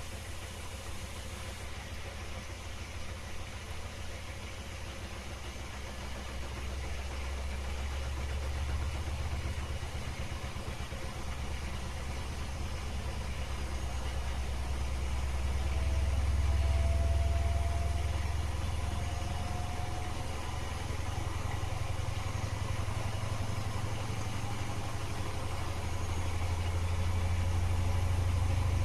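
Candy GrandO Plus GO4 1274 washing machine on its final spin: a low drum-and-motor hum that slowly grows louder, with a faint rising whine about halfway through.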